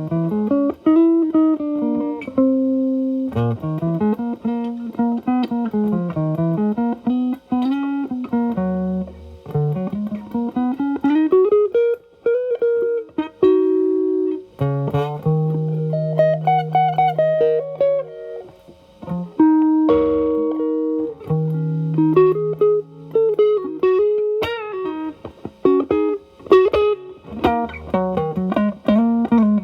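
Telecaster electric guitar played through an E.W.S. Brute Drive distortion pedal into a Marshall Valvestate amp's drive channel, with the guitar's volume rolled back for a cleaned-up tone. It plays improvised bluesy single-note lead lines with string bends, held notes and short pauses.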